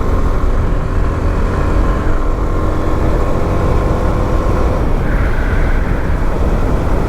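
Motorcycle engine running steadily while riding, under a heavy, even low rumble of wind on the microphone.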